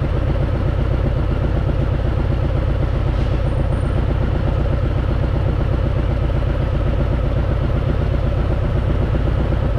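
Harley-Davidson Fat Boy's V-twin engine running steadily, with no change in revs.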